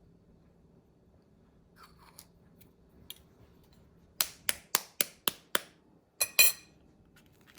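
A boiled balut egg being tapped to crack its shell: about six quick sharp taps, roughly four a second, then two more a moment later.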